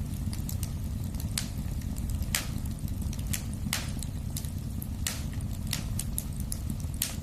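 Wood fire crackling, with irregular sharp pops about once a second over a steady low rumble.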